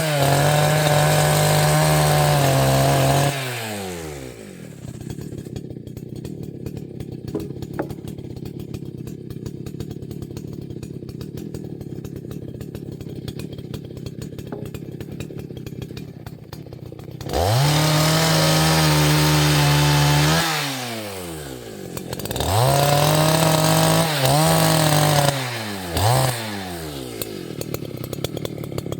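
Two-stroke chainsaw with an Oregon semi-chisel chain, run at full throttle for about three seconds, then dropping back to idle for a long stretch, revved up again twice for about three seconds each, and given one short blip before settling back to idle near the end.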